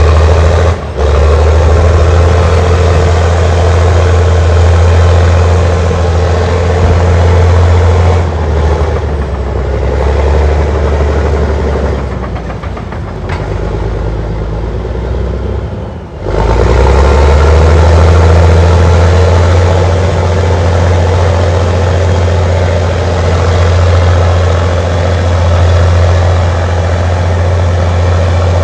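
Allis-Chalmers HD-21A crawler dozer's diesel engine running loud and steady under load, with a deep low hum. It eases off for a stretch in the middle, dips sharply for a moment, then comes back up to full loudness.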